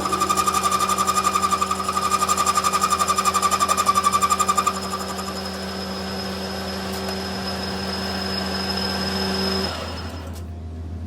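Workshop machinery: a fast, rhythmic mechanical hammering over a steady machine hum. The hammering stops about halfway through, the hum runs on alone, and then it cuts off near the end.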